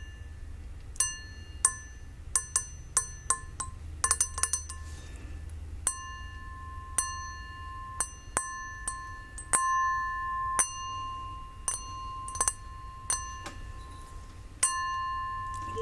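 Gold-rimmed crystal glass tapped repeatedly, each tap giving a clear, bell-like ring at several pitches. From about six seconds in, the ring carries on between the taps.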